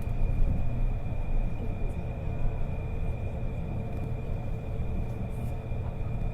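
Interior running noise of a Kobe New Transit 2020-series Port Liner, a rubber-tyred automated people mover: a steady low rumble from the tyres and running gear with a thin, steady high-pitched whine over it.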